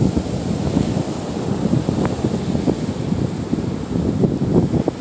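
Wind gusting across the microphone with loud, uneven low buffeting, over the steady wash of surf on the Gulf of Mexico shore.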